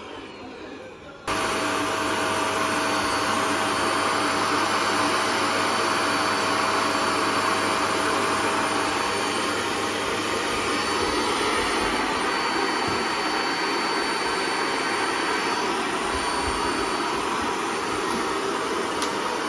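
Vacuum cleaner running steadily with a constant whine, cutting in suddenly about a second in.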